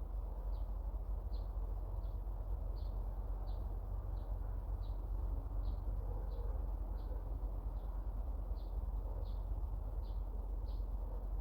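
A small bird calling with a single short, high note, repeated evenly about once every three-quarters of a second, over a steady low rumble.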